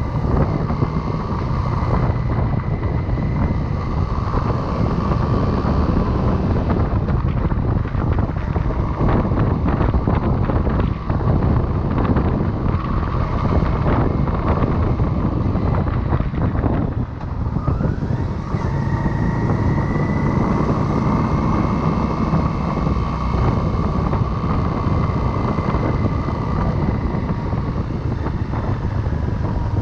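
Motorcycle engine running at road speed, with wind noise on the chest-mounted microphone. About seventeen seconds in, the engine sound drops briefly, then its pitch climbs again.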